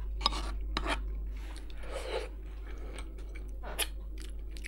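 A person chewing a mouthful of rice stir-fry, with a few short sharp clicks.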